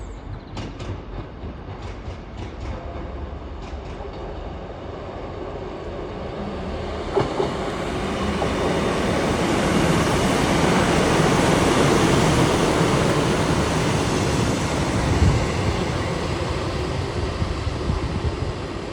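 GWR Class 150 Sprinter diesel multiple unit arriving: the rumble of its underfloor diesel engines and wheels on the rails grows louder, peaks about twelve seconds in, then slowly eases as it slows. A few sharp clicks come early on, and single knocks about seven and fifteen seconds in.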